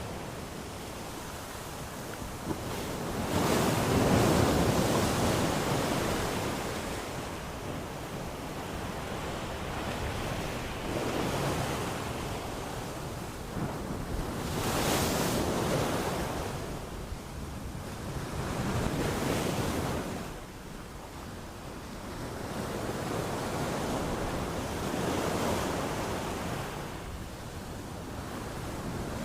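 Sea waves breaking and washing in, in slow swells every few seconds. The biggest comes about four seconds in.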